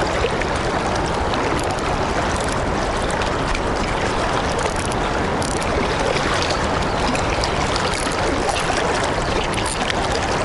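Steady rush of fast-flowing river current.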